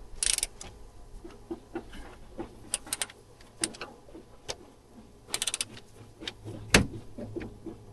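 Metal hand tools clicking and clinking during car repair work, with two short runs of rapid clicks and one loud knock near the end.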